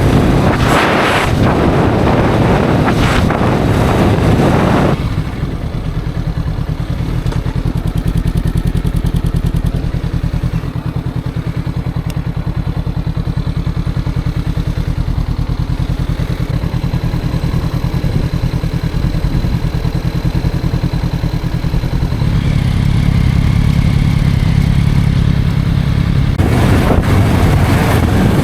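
Motorcycle engine running steadily while being ridden. A loud wind rush over the microphone covers it for the first five seconds and again near the end.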